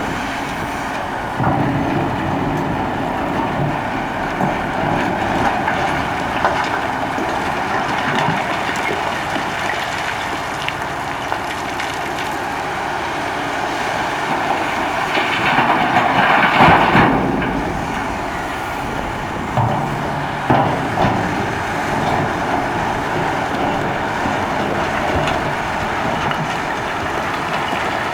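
Cat 6015B hydraulic mining excavator working: heavy diesel engine and hydraulics running steadily, growing louder for a couple of seconds around the middle.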